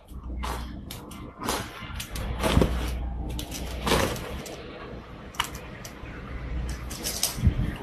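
Small dog digging and scratching at a floor rug with its front paws: irregular scraping and clicking of claws on the rug, over a low steady rumble.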